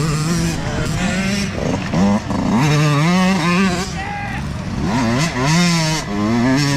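Several dirt bike engines revving, their pitch rising and falling again and again.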